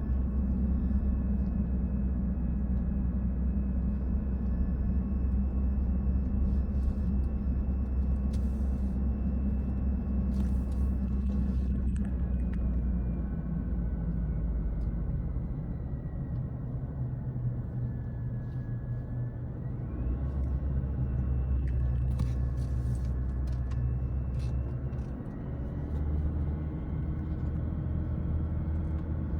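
Car engine and road noise heard from inside the cabin on a downhill drive. The note is steady, then falls gradually about halfway through and rises again a few seconds later.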